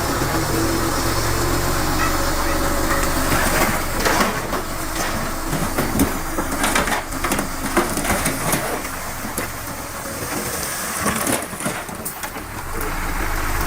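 Heavy diesel earthmoving machinery running. From about four seconds in, irregular crunching and knocking takes over while the engine drops back, and the engine rises again near the end.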